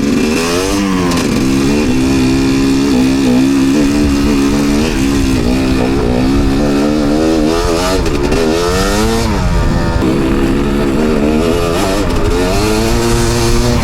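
Enduro dirt bike engine being ridden, its revs rising and falling again and again as the throttle is worked over rough ground.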